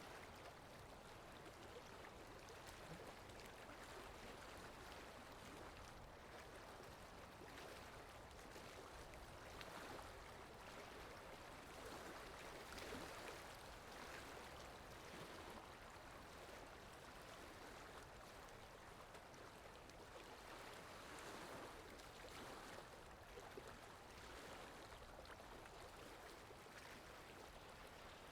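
Faint ocean waves washing in: a steady rush of water that swells and eases every few seconds.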